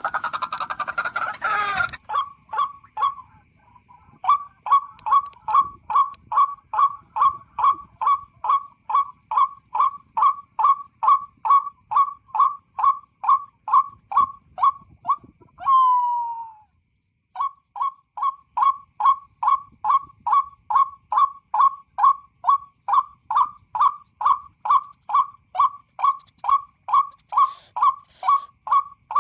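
White-breasted waterhen call played from an MP3 player as a lure: a steady, even series of short calls, about two and a half a second, after a harsh rasping stretch at the start. Just past halfway comes one falling note and a brief dead silence, then the series starts again.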